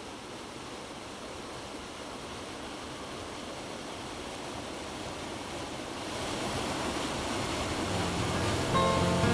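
A steady rushing noise that slowly grows louder. Plucked guitar notes come in near the end.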